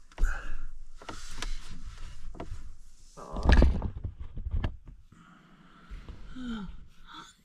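Knocks, clicks and rustling of someone moving about and handling things in a small enclosed space, with a heavier thump about three and a half seconds in and a short falling squeak near the end.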